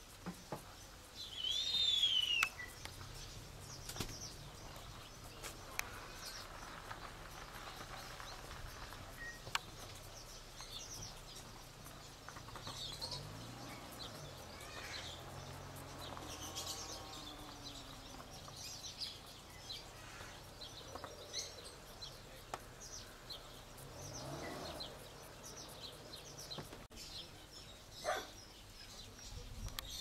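Birds calling: one loud, downward-curving whistled call about a second and a half in, followed by scattered faint, short high chirps throughout.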